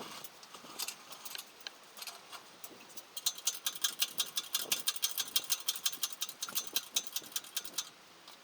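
Hand tools clinking on metal, then a ratchet wrench clicking rapidly and evenly for about five seconds as a fastener is turned.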